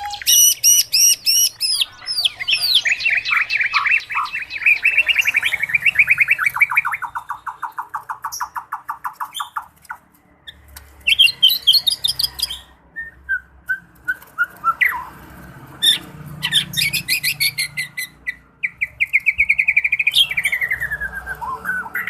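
Songbird singing long, rapid trills and varied chirping phrases, broken by short pauses.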